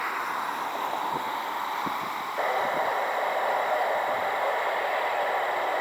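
Steady hiss, which steps up in level about two and a half seconds in.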